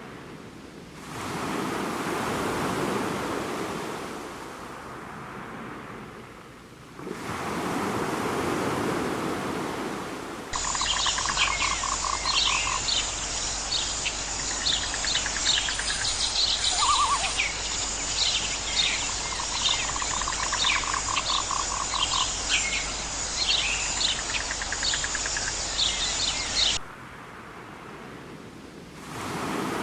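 A steady rushing noise for the first stretch, then a busy chorus of birds chirping rapidly, with short fast-pulsed trills mixed in. It ends abruptly near the end.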